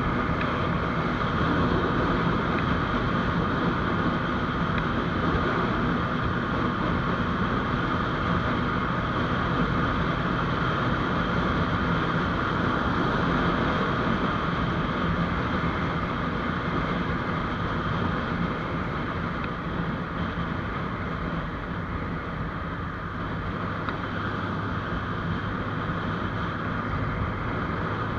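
GPX Demon GR200R motorcycle's engine running at a steady cruise, with wind rushing over the microphone; it eases off a little about two-thirds of the way through.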